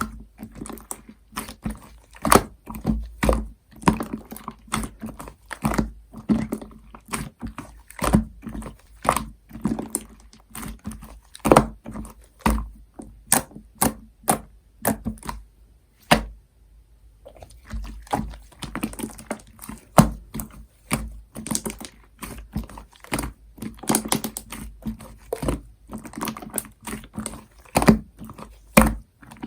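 Clear slime mixed with shaving foam being squeezed and kneaded by hand, making a fast, irregular run of sticky clicks and pops, with a short pause about halfway through.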